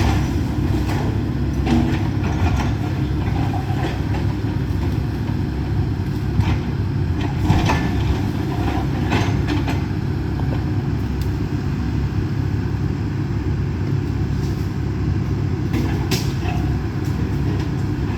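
Steady diesel engine rumble from an excavator demolishing a wood-frame house, with scattered sharp cracks and knocks of timber breaking and debris falling; the sharpest cracks come about a third of the way in and near the end.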